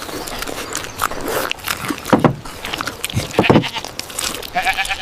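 Cartoon sheep bleating, a few short calls, among scattered clicks and knocks.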